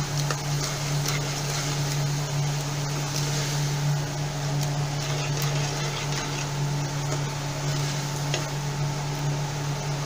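Onion, tomato and curd masala sizzling in a pan while a steel spoon stirs it, with occasional faint scrapes and clicks of the spoon against the pan. A steady low hum runs underneath.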